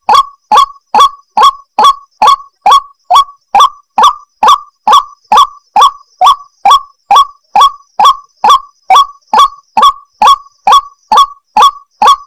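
White-breasted waterhen (ruak-ruak) calling, one short call repeated evenly about twice a second, from a lure recording used to draw in wild waterhens.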